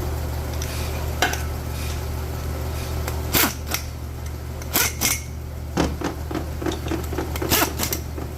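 Steel connecting-rod caps and nuts clinking and tapping as they are handled and fitted by hand: a few sharp metal clinks, then a quicker run of light taps near the end, over a steady low hum.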